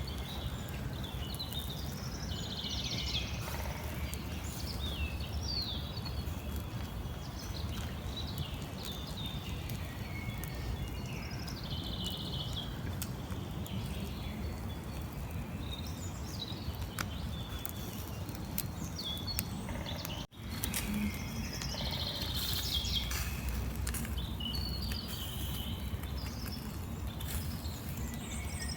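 Small birds chirping and singing in repeated short calls over a steady low outdoor rumble. The sound cuts out for an instant about two-thirds of the way through.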